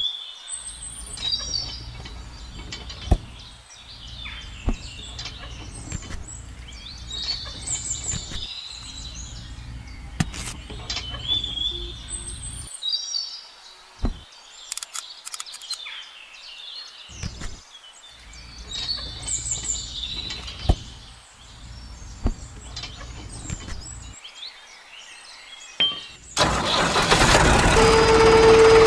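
Birds chirping in short repeated phrases over a low steady hum that cuts in and out several times. Near the end a much louder harsh mechanical rattle starts.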